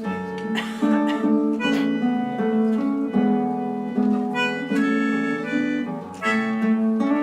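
Instrumental music with no singing: guitar notes under a held, reedy melody line.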